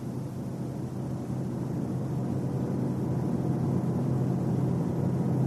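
Car driving at highway speed: steady road and drivetrain noise with a low hum, slowly growing louder as the car gathers speed.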